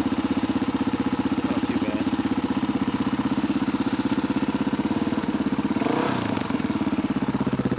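1985 Honda XR350R's single-cylinder four-stroke engine idling steadily shortly after a kickstart cold start, an even rapid thump of firing pulses, with a brief swell in the sound about six seconds in.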